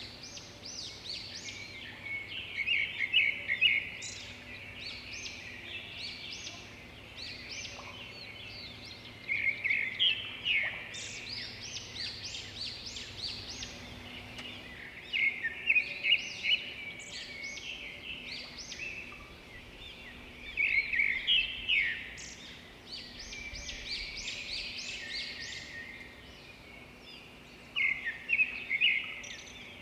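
Birds chirping and calling: a steady background of high chirps, broken by loud bursts of quick, rapid notes about every five or six seconds.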